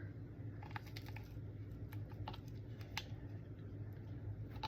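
Light, irregular clicks and taps of a ramen seasoning packet and plastic bowl being handled, over a low steady hum.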